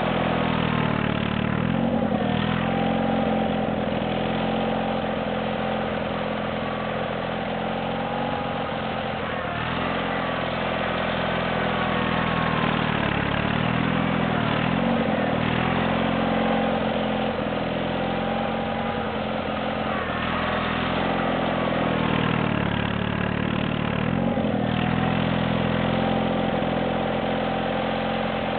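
Ariens GT17 garden tractor engine running steadily while plowing snow, its note sagging briefly several times as the plow takes on load and then recovering.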